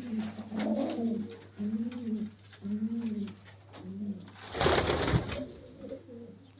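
Domestic pigeon cooing: a series of low, arched coos, about one a second. About four and a half seconds in, a brief loud rustling burst covers them.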